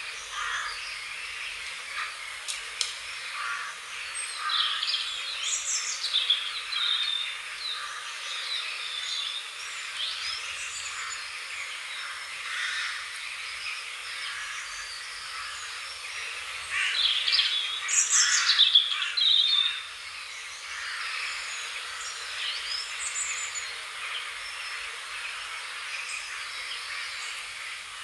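Wild birds chirping and singing over a steady outdoor hiss, short calls scattered throughout, with a louder, busier burst of song about two-thirds of the way through.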